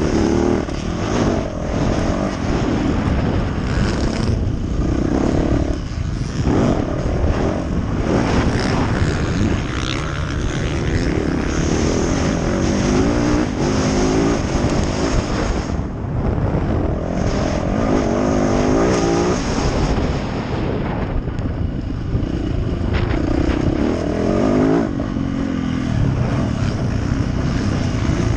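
Yamaha YZ450F four-stroke motocross bike engine being ridden hard, its pitch climbing again and again under acceleration and dropping back between pulls.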